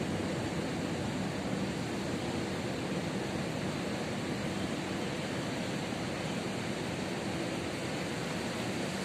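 Ocean surf: a steady, even wash of breaking waves with no single wave standing out.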